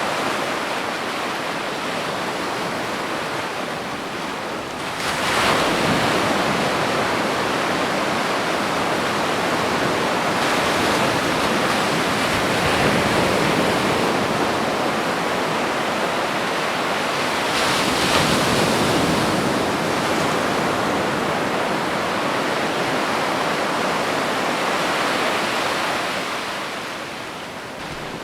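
Ocean waves breaking on a beach, a continuous surf wash that swells twice, about five seconds in and again about eighteen seconds in, and eases off near the end.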